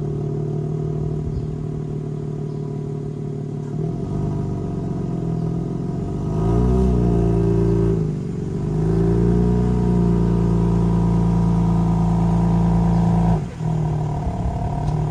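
BMW G80 M3 Competition's twin-turbo straight-six exhaust running at low revs through an equal-length mid pipe. The revs rise and fall gently a few times, about four, seven and nine seconds in, then ease off suddenly near the end.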